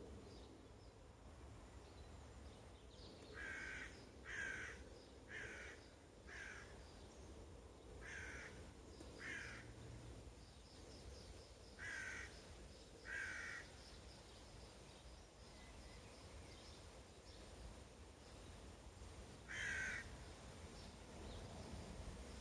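A crow cawing, about nine calls in groups of two to four, with a last single call near the end.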